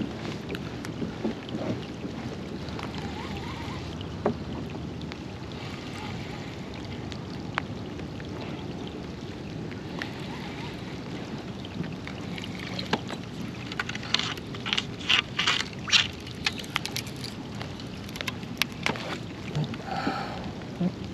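Sounds of a fishing kayak on the water, with wind on the microphone: a steady rushing under scattered light clicks. A run of sharp knocks and taps about two-thirds of the way through is the loudest thing.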